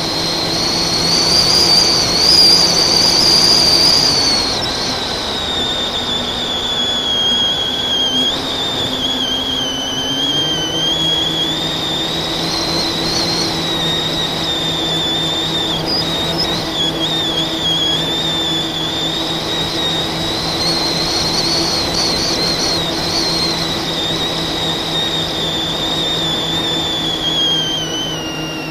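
FPV quadcopter's brushless motors whining, the pitch rising and falling as the throttle changes. A steadier low hum runs beneath, dropping in pitch about four seconds in and coming back up around ten seconds in.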